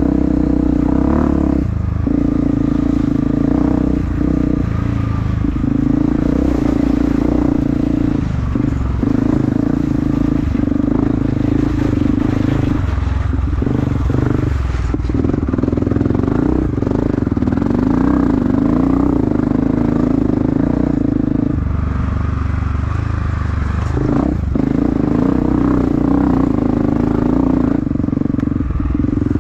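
Off-road dirt bike engine running hard under load, held at a steady pitch, with the throttle briefly chopped a handful of times before picking up again.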